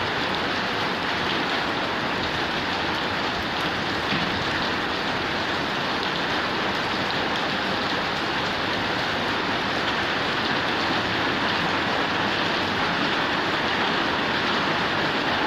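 Steady, heavy rain pattering on a corrugated zinc roof and splashing into running water, an even dense hiss with faint scattered drop ticks.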